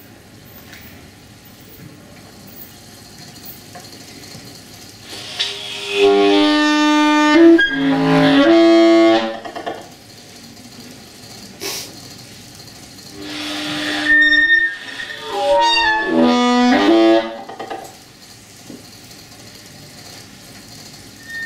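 A wind instrument played through a computer, in two short phrases of held notes, the first about six seconds in and the second about thirteen seconds in, with low hiss between them.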